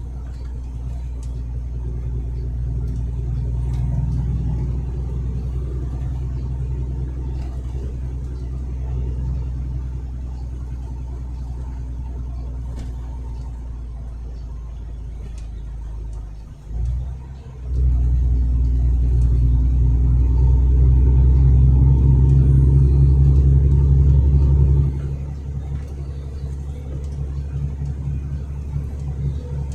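Truck engine droning steadily, heard from inside the cab. About 17 seconds in it dips for about a second, then runs louder for several seconds before easing back near the end.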